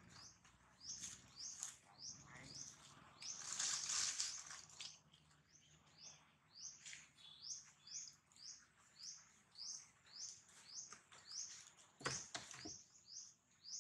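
A bird repeating a short, high, rising chirp over and over, one or two a second. A louder rustle of dry leaves a few seconds in, and a few sharp crackles near the end.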